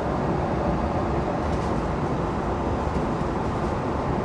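Steady rushing cabin noise of a jet airliner in flight.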